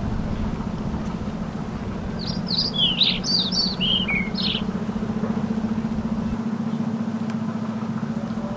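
A songbird sings one short phrase of quick chirps, about two seconds long, starting a couple of seconds in. Under it runs a steady low engine hum.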